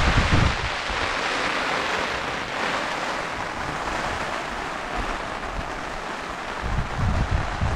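Steady hiss of a passing rain shower, with gusts of wind buffeting the microphone at the start and again near the end.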